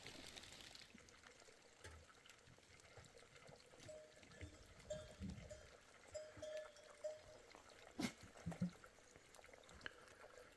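Faint sounds of a sheep and goat herd, with a few sharp knocks about three-quarters of the way through.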